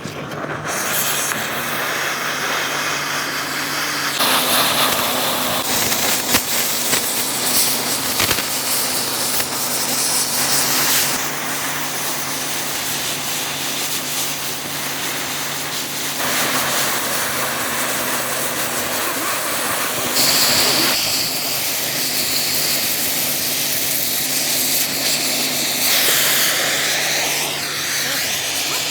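Cutting torch hissing steadily as it cuts through an iron plate, the jet of noise changing strength several times, over a steady low hum.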